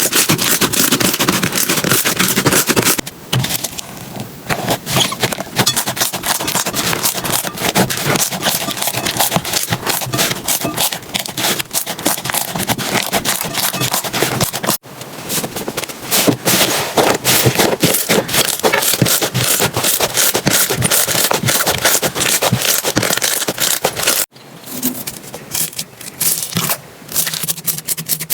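Slime being handled and squished, making dense crackling and popping clicks, with a quieter stretch a few seconds in and abrupt breaks about 15 and 24 seconds in.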